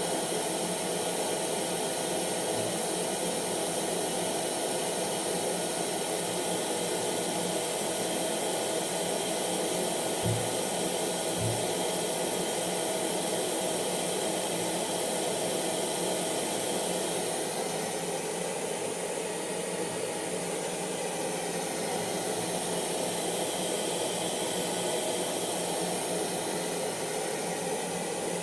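Electric hair dryer running steadily: a continuous blowing whoosh with a faint motor hum. Two soft low knocks come about 10 and 11.5 seconds in.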